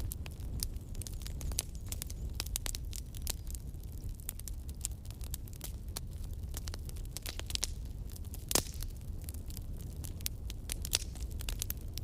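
Campfire burning, wood crackling and popping in irregular sharp snaps over a low steady rumble of the flames, with one louder pop about eight and a half seconds in.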